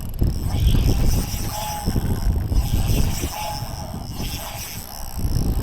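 Wind buffeting the microphone in uneven low rumbles, with a faint short high beep about every second and a half.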